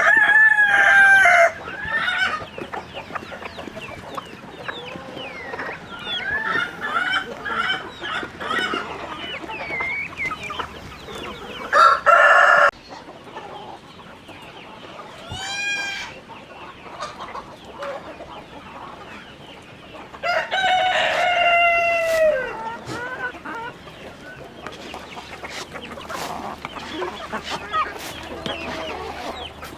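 A flock of chickens clucking and chattering continuously, with roosters crowing loudly three times: at the start, about twelve seconds in, and about twenty-one seconds in, the last crow falling away at its end.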